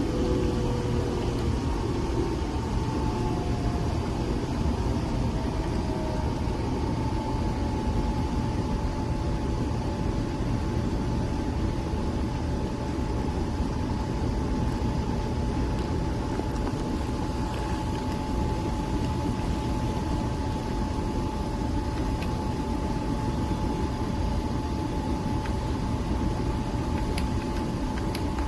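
Small appliance motor running steadily: a constant hum and hiss with a steady whine. In the first few seconds a couple of tones slide down in pitch before it settles into one even whine.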